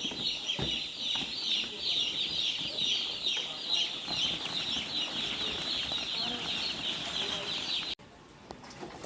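A crowded flock of chicks peeping without pause, a dense chorus of high, short chirps. It cuts off abruptly about eight seconds in.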